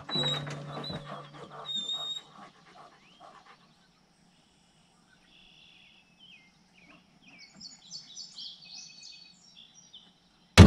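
A small songbird chirping over and over, short high notes in the last few seconds. Before that comes a brief low hum with some clatter in the first two seconds, then near quiet.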